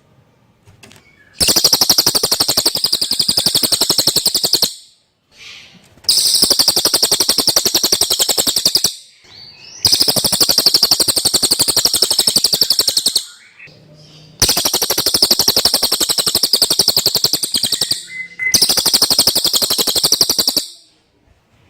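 Cililin bird singing: five long, very rapid, high-pitched trills of about two to four seconds each, separated by short pauses.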